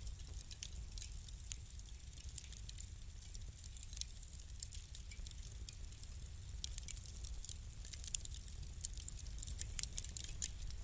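Wood fire crackling in a fireplace: irregular sharp pops and snaps over a steady low rumble, with a few louder snaps in the second half.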